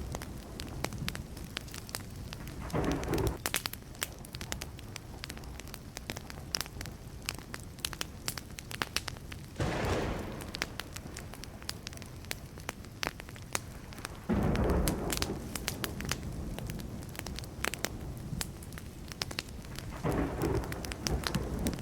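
Burning wood fire crackling with frequent sharp pops, under rolls of distant thunder. The thunder swells in four times, about three, ten, fifteen and twenty seconds in, the roll near fifteen seconds starting abruptly and the loudest.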